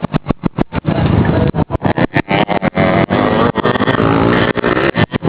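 Motocross motorcycle engine revving, its pitch rising and falling, with the sound breaking up in many brief gaps.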